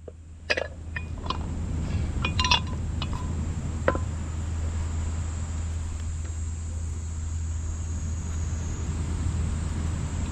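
Several light clinks and knocks, a few of them briefly ringing like glass, in the first four seconds. A steady low hum and a steady high-pitched hiss run underneath.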